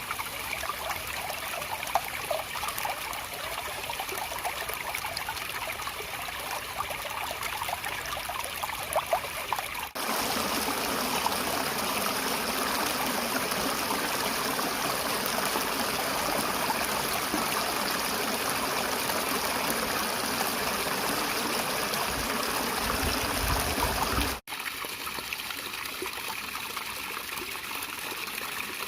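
Water flowing in a stream, a steady trickling rush. It cuts abruptly about a third of the way in to a fuller, deeper rush of water, then cuts back to a lighter trickle near the end.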